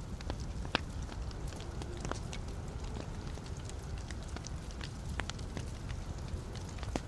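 Wood fire burning in a fireplace: a steady low rumble of flame with irregular sharp crackles and pops from the logs, one louder pop under a second in.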